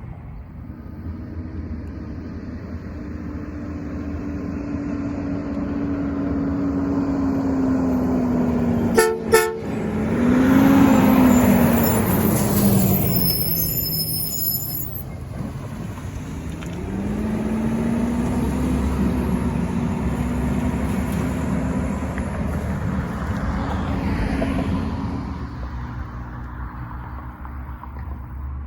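Garbage truck driving past with its engine running loud, giving two short horn toots about nine seconds in. The engine's whine dips in pitch as it goes by, then another truck's drone builds and fades.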